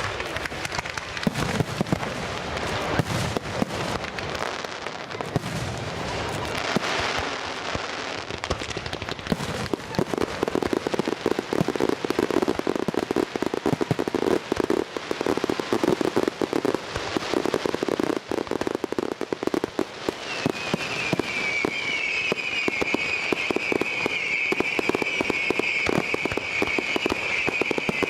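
Fireworks display: dense, rapid crackling pops and bangs. About twenty seconds in, a high wavering whistle joins them.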